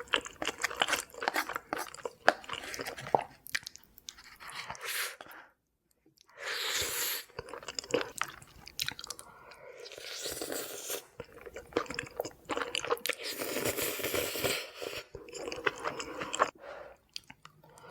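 Close-up chewing of pasta: repeated mouth clicks and wet chewing noises in bursts, with a short pause about six seconds in.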